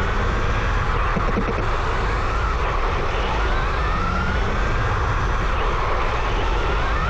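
Radio-controlled Tamiya truck's electric motor and gearbox whining, the pitch rising and falling with the throttle, over a steady low rumble.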